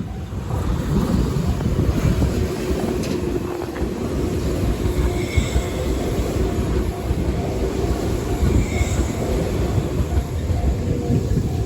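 A train rumbling past a level crossing while the crossing bell rings steadily in repeated dings. Two brief high wheel squeals come about halfway through and again near the end. The rumble falls away at the end as the train clears.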